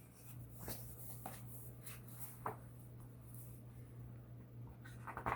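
Pages of a picture book rustling and being handled as a page is turned, with a few light clicks over a steady low hum.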